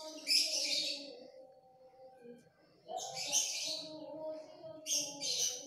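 Birds chirping in three short bursts of high twittering, over a faint steady low hum.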